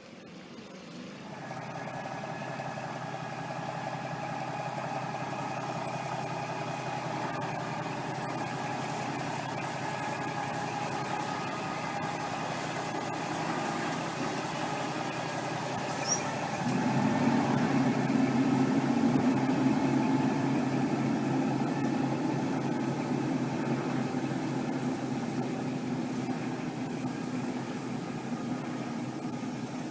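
Heavy diesel truck engine running steadily at idle, then stepping up suddenly to a louder, stronger note a little over halfway through.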